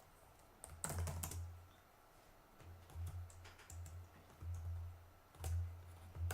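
Computer keyboard typing: scattered keystrokes, a quick cluster about a second in and a few more later, with low rumbles coming and going between them.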